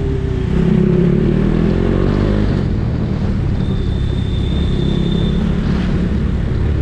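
Kawasaki Ninja H2's supercharged inline-four running at low city speed, its engine note rising briefly about two seconds in. A thin, high, steady tone sounds for under two seconds midway.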